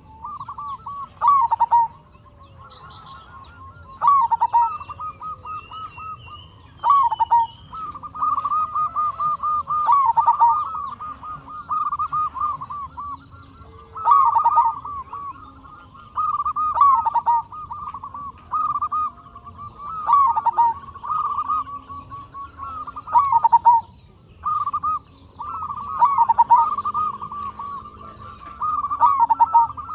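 Zebra dove (perkutut) cooing, a fast bubbling coo phrased over and over every second or two, with short pauses between bouts. Faint high chirps of smaller birds sound underneath.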